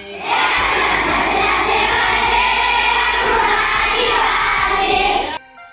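A group of children singing loudly together in chorus, many voices blended. It cuts off abruptly near the end.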